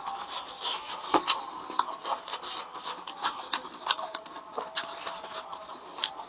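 Close-miked eating sounds: chewing and mouth noises over chicken and noodles, with frequent small clicks and scrapes of utensils on a dish, several a second.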